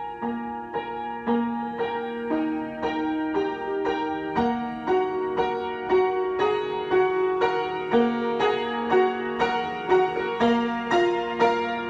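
Solo piano improvisation: notes struck in an even pulse of about two a second over longer held notes, growing a little louder toward the end.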